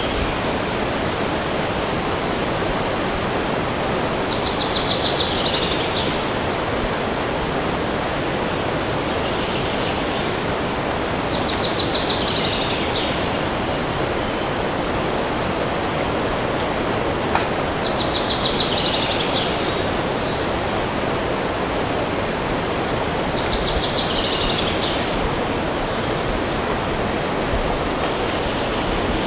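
Steady rushing noise of wind in the forest trees. Over it, a songbird repeats a short, high trilled phrase that falls in pitch, about every six seconds, four times.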